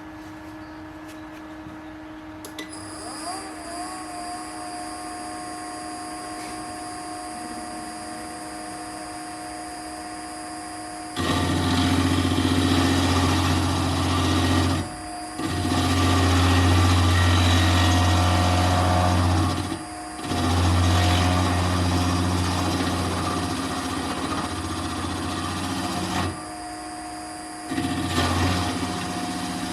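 Nova Viking drill press running with an annular cutter. From about 11 seconds in, the cutter bores into steel in three loud stretches of low grinding hum, each broken by a brief pause, then once more, shorter, near the end.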